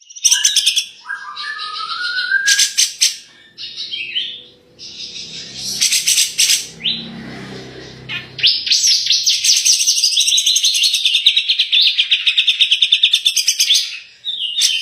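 Cucak jenggot (grey-cheeked bulbul) in full song: a varied string of loud chirps and trills, with a rising whistled phrase about a second in. Past the middle comes a long, fast rattle of repeated notes, about seven a second, that ends near the end.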